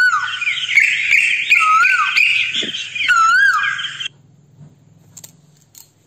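Birds calling: a repeated whistled note that swoops up and then down, over a dense chorus of chattering, which cuts off abruptly about four seconds in. A faint low hum continues underneath.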